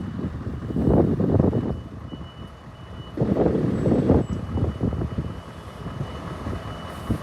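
Scania R 580 truck's V8 diesel engine running, swelling louder a couple of times, under a high reversing alarm tone that drops out briefly near the middle.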